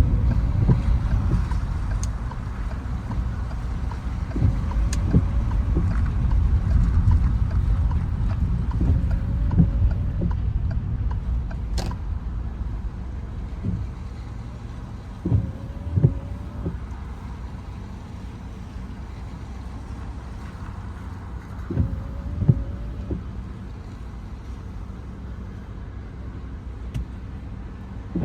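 Car driving in the rain at night: low road and engine rumble that eases off through the middle as the car slows. Windscreen wipers sweep about every five to six seconds, each sweep a short knock with a brief rubbery tone.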